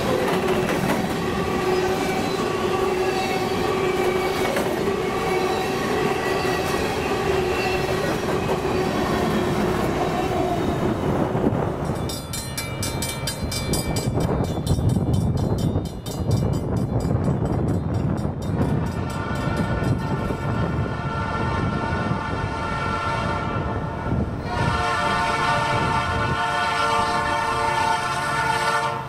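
A Canadian National diesel freight train runs past with a steady rumble of wheels on the rails. Its locomotive air horn sounds, loudest as a stacked chord in the last few seconds.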